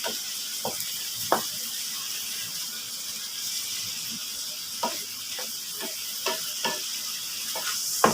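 Strips of liver sizzling in a hot pan, with a utensil scraping and knocking against the pan about nine times as they are stirred.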